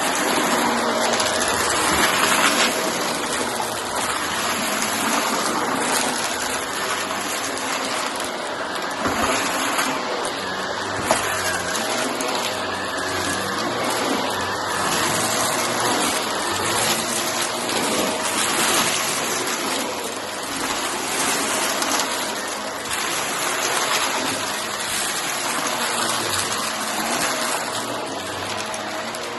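Shark vacuum cleaner running under load, a steady rush of air over its motor tone, with small crackles and ticks as bits of cardboard are sucked up.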